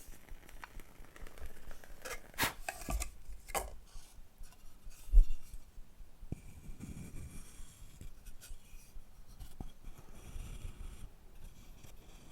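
Close-miked scraping and rubbing on wooden objects, with a few sharp scrapes about two to four seconds in and a single low knock, the loudest sound, about five seconds in, then softer rubbing.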